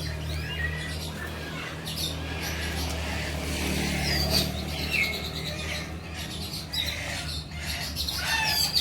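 Several songbirds chirping and whistling: short sharp calls, quick up-and-down whistles and a few rapid trills, coming one after another. A steady low hum runs underneath.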